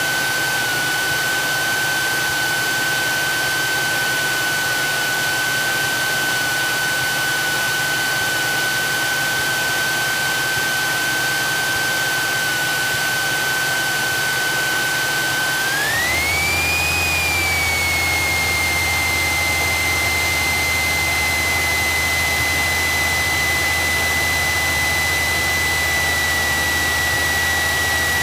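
Cessna 172SP's four-cylinder Lycoming IO-360 engine and propeller running at taxi power, mixture leaned, as heard in the cabin: a steady drone with a whine on top. About sixteen seconds in the engine speeds up, the whine rising in pitch and settling a little higher while the low rumble grows.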